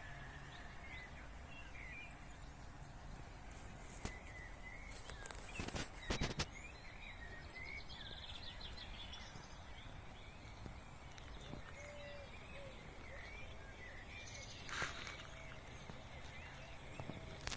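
Songbirds chirping and calling with many short, quick notes, including a brief trill, over a steady low background rumble of the city. A few short knocks or rustles stand out twice, around a third of the way in and near the end.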